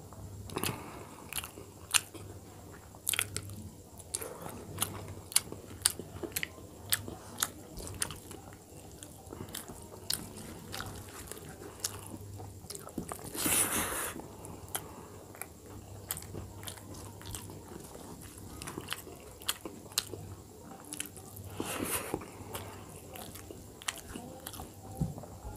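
Close-up chewing and wet mouth sounds of a person eating rice and dal by hand, a steady run of sharp smacking clicks. A longer, louder noisy sound comes about halfway through and again near the end.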